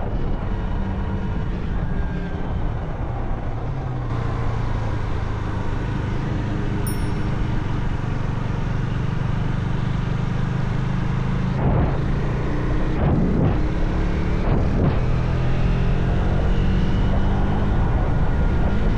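Motorcycle engine running while riding, its note changing about four seconds in and climbing steadily through the second half as the bike accelerates.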